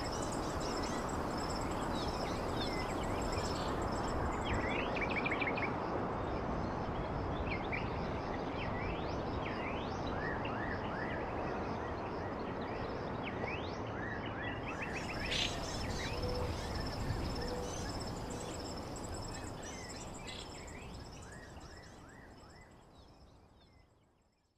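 Birds chirping in many short, quick calls over a steady background hiss, with a steady high-pitched trill running underneath. The whole ambience fades out over the last few seconds.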